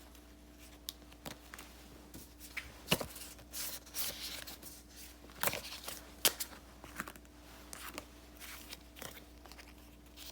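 Paper and sticker sheets being handled for journal decorating: rustling and crinkling with scattered small taps and clicks, a few sharper clicks about three, five and a half and six seconds in.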